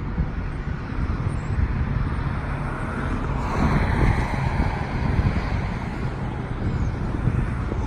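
Boeing 777-300ER landing: a steady rumble with rushing noise. The rushing swells about three and a half seconds in, is loudest around four to five seconds, then eases.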